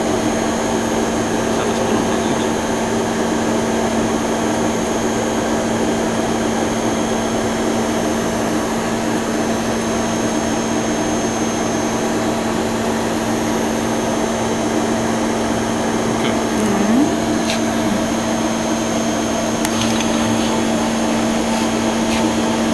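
Monforts KNC 602 CT CNC lathe running steadily under its program, a constant machine hum with a steady tone. About three-quarters through, the tone briefly dips and comes back, followed by a few light clicks.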